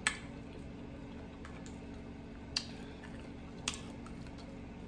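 Close-miked eating: quiet chewing with three sharp clicks, over a faint steady hum.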